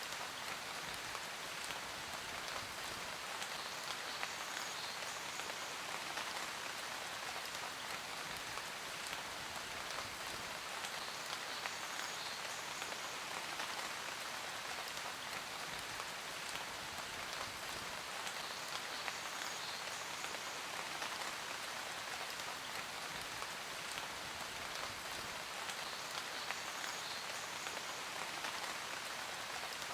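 Steady heavy rain falling, an even hiss with fine pattering of drops.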